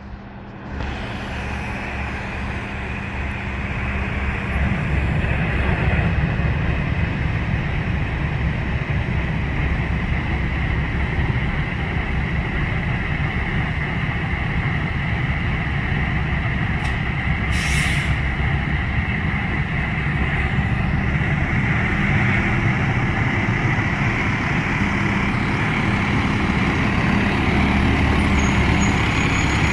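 Heavy fire truck's diesel engine running, growing louder over the first few seconds, then holding steady. A short hiss of air from the air brakes comes a little past halfway.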